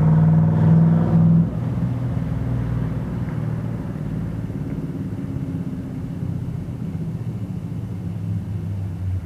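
1974 Dodge D100's 361 big-block V8 running through an X-pipe and dual Pypes M80 mufflers: held at raised revs, then dropping suddenly about a second and a half in to a low, steady exhaust rumble.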